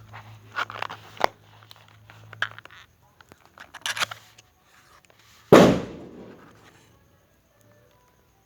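A firecracker (a festa junina 'bomba') goes off with a single giant bang about five and a half seconds in, then dies away over a second or so. Before it come rustles and clicks of a package being opened.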